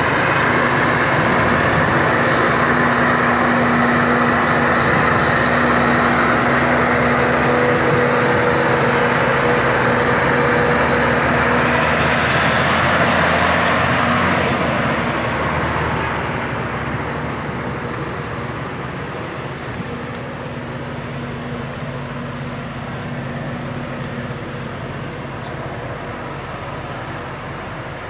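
Claas Jaguar 870 self-propelled forage harvester running steadily, its engine and chopping drum giving a loud, even hum, growing quieter from about fifteen seconds in.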